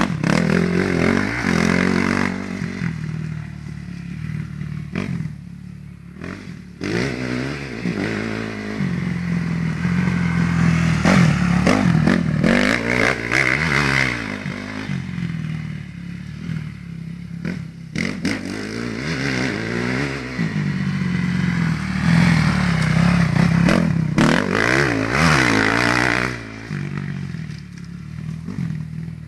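Motocross bike engine revving up and easing off again and again as it is ridden through the corners of a figure-eight track. It grows louder and fainter in waves about every ten seconds as the bike comes nearer and goes farther away.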